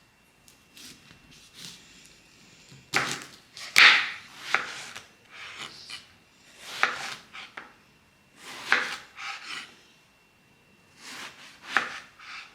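Knife cutting vegetables on a wooden cutting board, in five short bouts of cuts and scrapes with pauses between them.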